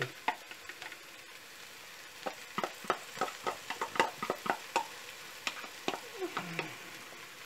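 Chopped onions, ginger, garlic and green chillies frying in oil in a pan, just after a diluted salt-and-chili paste has gone in: a low steady hiss under many sharp crackles and ticks, thickest from about two seconds in.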